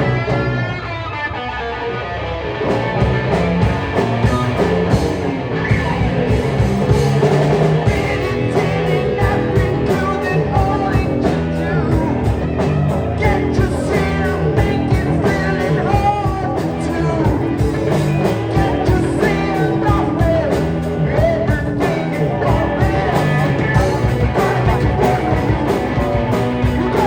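Rock band playing live, guitar-led rock music that gets louder and fuller about three seconds in.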